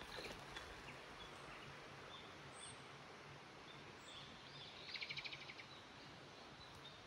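Faint outdoor ambience with a steady low background hiss and scattered short, high bird chirps, broken about five seconds in by a brief rapid trill.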